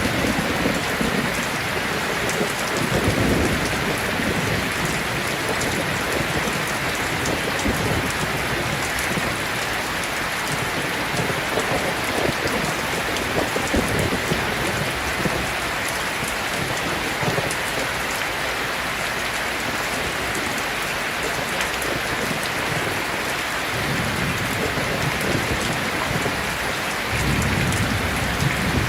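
Heavy rain falling steadily, with low rolls of distant thunder about three seconds in and again near the end.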